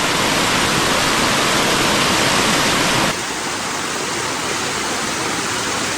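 Waterfall rushing: a steady, dense roar of falling water. About three seconds in it abruptly turns a little quieter, with less low rumble.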